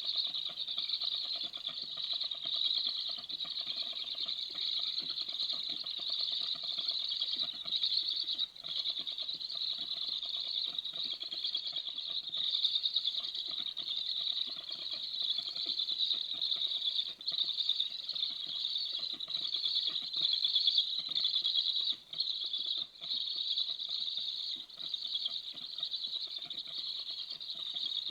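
Heavy rain pattering steadily, a dense, unbroken stream of fine drop ticks.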